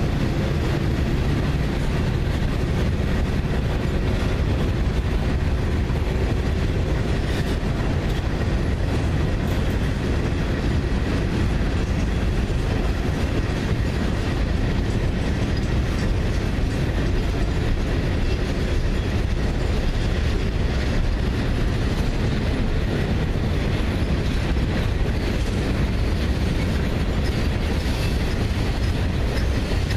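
Freight train of boxcars and tank cars rolling past, a steady low rumble of steel wheels on rail with the clickety-clack of wheels over rail joints.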